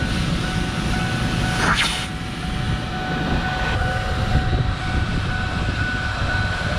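Rug Doctor carpet cleaner's vacuum motor running steadily with a high whine, extracting dirty water from truck carpet, with a short louder rush about two seconds in.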